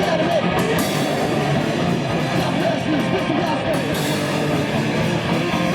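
Rock music with electric guitar and a drum kit, playing steadily and loud.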